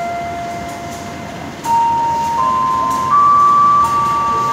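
Trains at a station platform: a standing electric commuter train and a locomotive-hauled train drawing in, with steady whining tones that step up in pitch and grow louder over a low rumble.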